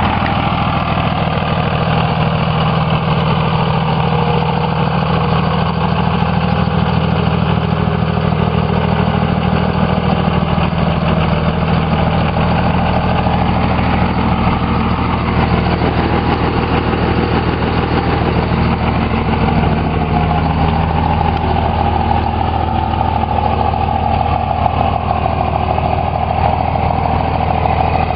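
5.9-litre Cummins inline-six turbo diesel in a 2002 Dodge Ram 2500, idling steadily through a 4-inch performance exhaust.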